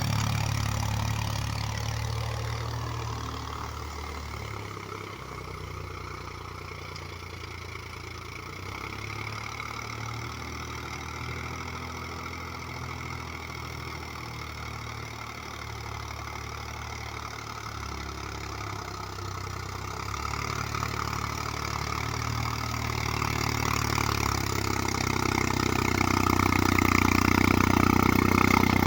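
Mahindra Yuvo 275 DI tractor's 35 hp diesel engine running steadily while working a rotavator. It fades as the tractor moves away and grows louder again over the last several seconds as it comes back.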